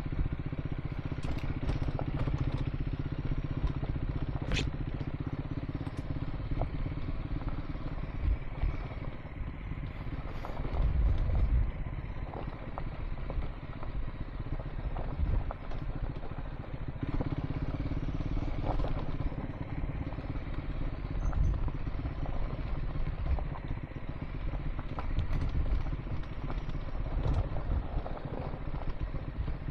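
Triumph Scrambler 400 X single-cylinder engine running steadily while riding a dirt track, with scattered knocks and clatter as the bike jolts over the rough ground.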